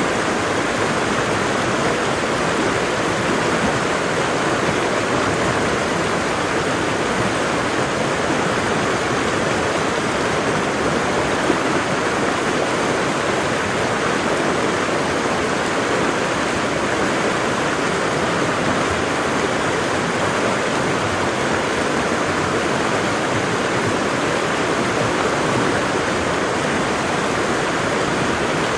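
A waterfall's water falling and splashing in a steady, unbroken rush.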